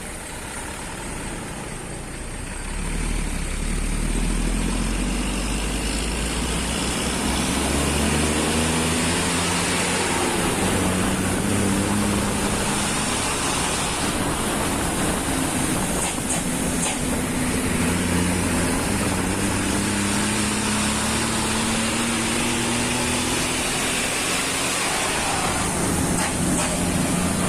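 Loaded truck's engine under way, picking up about two seconds in, then rising in pitch several times as it accelerates through the gears.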